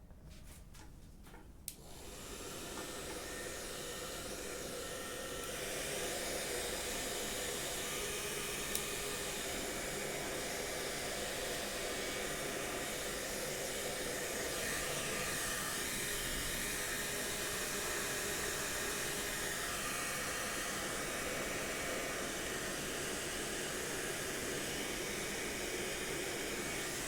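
2,400-watt ceramic hair dryer switched on after a few clicks, its fan motor spinning up over about four seconds to a steady rush of air. It is being test-run after cleaning and maintenance.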